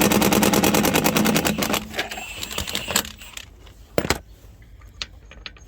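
Milwaukee Fuel impact wrench on its lowest setting, hammering rapidly on a 19 mm socket over a conical socket to undo a locking wheel nut. It stops about two seconds in as the nut breaks free, and a couple of sharp metal knocks follow.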